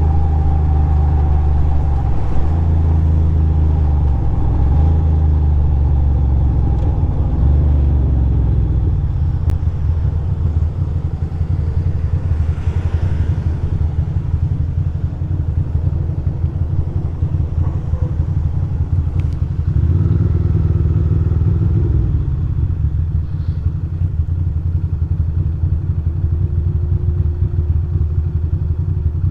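2006 Ducati Monster 620's air-cooled L-twin engine running as the bike is ridden, its pitch dipping and rising with throttle and gear changes over the first several seconds, then settling into a lower, steadier run with a brief pick-up about two-thirds of the way through.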